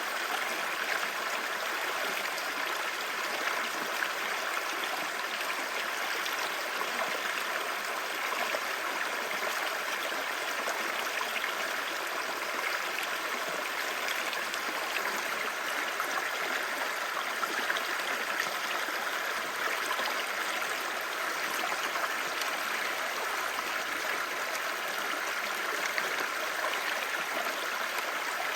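Clear mountain stream babbling over rocks, a steady rush of water with fine splashing and trickling.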